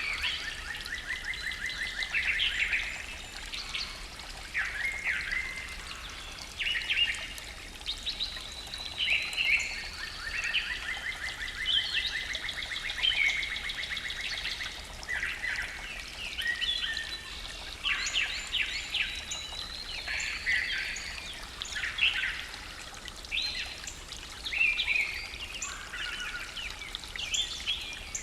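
Morning forest birdsong: several birds singing at once and overlapping, with rapid trills of quickly repeated notes lasting a couple of seconds each and thin high whistles in between, over a faint steady background hiss.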